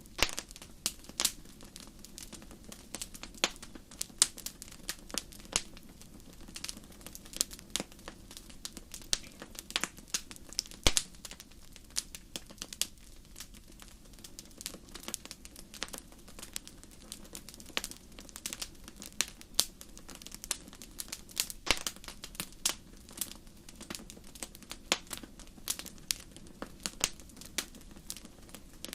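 Wood fire burning in a fireplace, crackling: frequent sharp, irregular pops and snaps, a few much louder than the rest, over a soft low hum.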